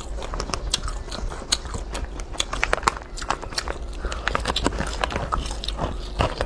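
Close-up biting and chewing of latiao, spicy wheat-gluten snack strips: many short, sharp mouth clicks following one another.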